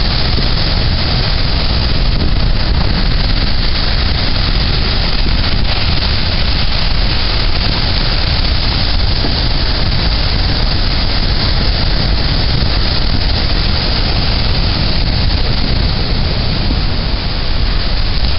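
Strong onshore storm wind blowing across the microphone in a loud, unbroken rush, over the wash of heavy storm surf.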